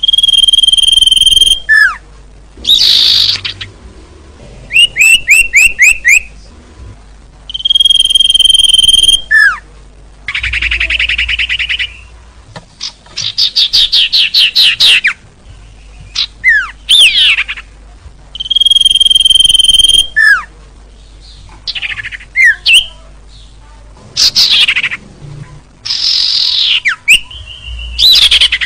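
Bird-lure recording of small songbirds calling. Loud phrases repeat with short pauses between them: a held high whistle, rapid trills of chirps and quick falling notes.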